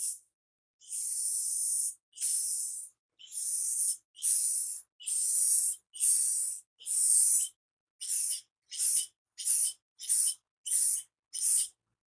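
Aerosol spray can of clear gloss top coat being sprayed in repeated hissing bursts. There are about seven bursts of roughly a second each, then from about two-thirds of the way through they become shorter and quicker, under half a second each.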